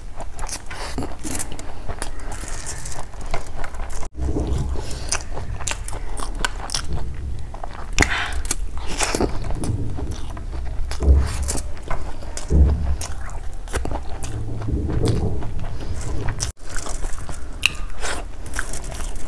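Close-miked eating sounds of a person eating lemon rice by hand: wet chewing, lip smacks and small clicks of the mouth, going on in quick succession. The sound cuts out abruptly for a moment twice.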